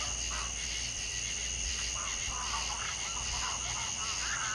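Nature soundscape: insects trill steadily at two high pitches over a low steady hum, while small animal calls, short chirps that PANN takes for frogs, come and go irregularly.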